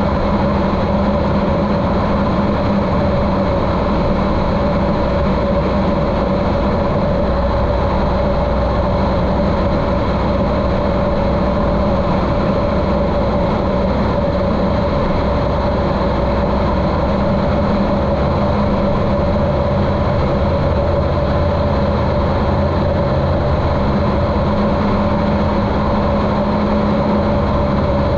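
Continental O-200 engine of a 1973 Cessna 150L running steadily in flight, muffled by a GoPro's waterproof case, with a steady drone and no change in pitch.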